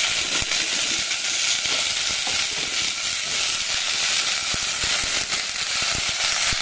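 Eggplant pieces sizzling in hot coconut-oil tempering in an aluminium pot: a steady frying hiss with scattered small crackles.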